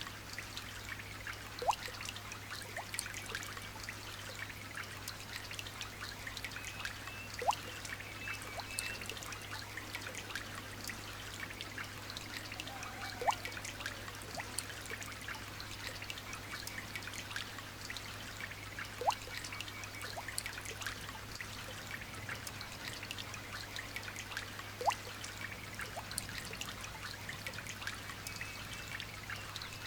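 Light rain falling as a dense patter of small drops over trickling water, with a louder single drip about every six seconds and faint bird chirps now and then. A steady low hum sits underneath.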